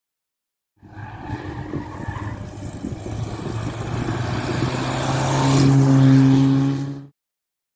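Rally car engine running at high revs, growing louder as it approaches and settling on a steady note. The sound starts about a second in and cuts off abruptly about seven seconds in.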